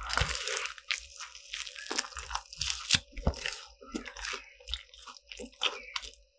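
A crisp croffle being bitten and chewed close to the microphone: dense, irregular crunching that stops shortly before the end.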